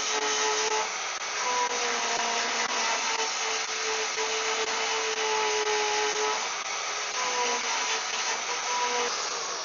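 Angle grinder grinding down fresh spot welds on a car's steel engine-bay panel. Its motor whine shifts in pitch as it is pressed into and eased off the metal, over a constant harsh grinding hiss.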